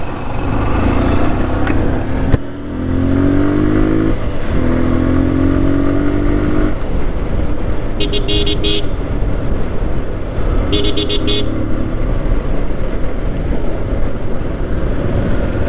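Motorcycle engine running under way, its pitch rising twice as it accelerates through the gears. A vehicle horn honks twice, briefly, about eight and eleven seconds in.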